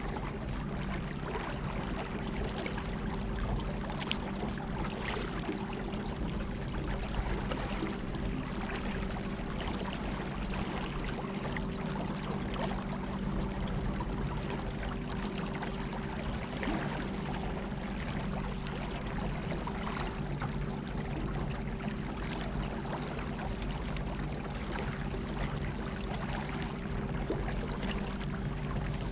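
Battery-powered trolling motor of about 50 lb thrust humming steadily at one even pitch, with water rushing and lapping around the boat's hull.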